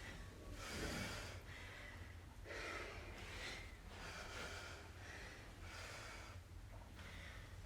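Heavy, rapid breathing, about one breath a second, as after a hard exercise set.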